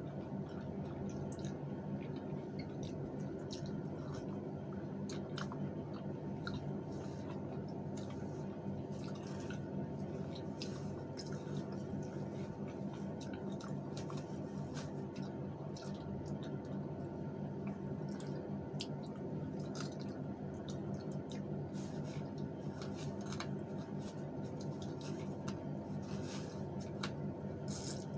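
People eating with their hands: scattered soft chewing and wet mouth clicks over a steady low hum.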